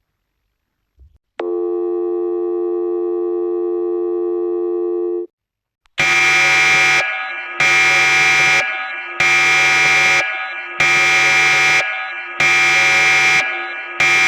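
Two electronic alarm-type sound effects. First, a steady buzzing tone held for about four seconds. Then a loud, shrill alarm sounds in repeated blasts, about one every second and a half, six times, the last one cut short.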